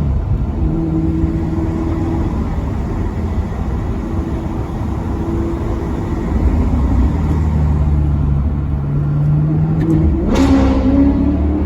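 Maserati Quattroporte Sport GT's V8 engine running at steady revs for several seconds, then revving up sharply near the end.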